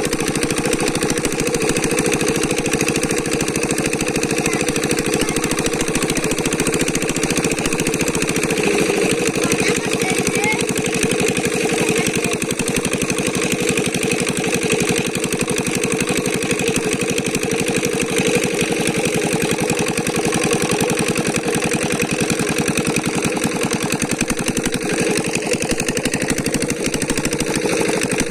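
A small engine running steadily at an even pace with a fast, regular beat.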